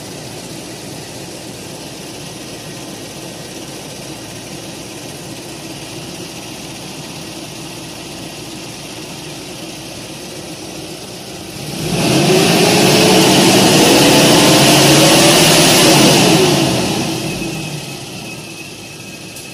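Car engine idling, then revved up about twelve seconds in, held high for about four seconds and let fall back to idle. The revving is part of a head gasket test: the mechanic suspects a leaking head gasket is pushing compression pressure into the cooling system.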